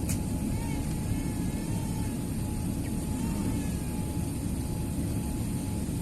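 Emirates Airbus A380's four jet engines at takeoff power: a steady, heavy rumble with a thin, steady whine above it.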